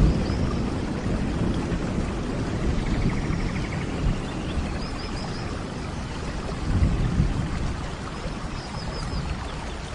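Steady rain with low rolling thunder; the rumble swells about seven seconds in and fades toward the end.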